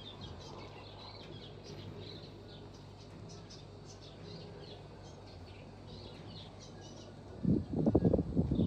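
Small birds chirping faintly and intermittently over a steady low hum; about seven and a half seconds in, a loud, low, irregular noise starts.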